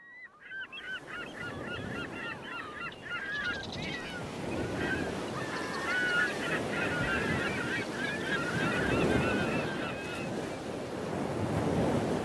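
A flock of birds calling, many short, quick calls overlapping, over a steady rushing noise; the calls thin out near the end.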